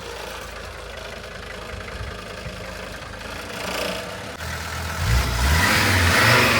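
Mercedes OM617 naturally aspirated five-cylinder diesel running steadily, heard from inside the car's cabin, growing louder about five seconds in.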